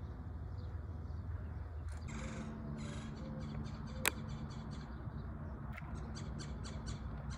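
A bird calling: two harsh calls about two seconds in, then a quick run of shorter calls, over a steady low hum. A single sharp click about four seconds in.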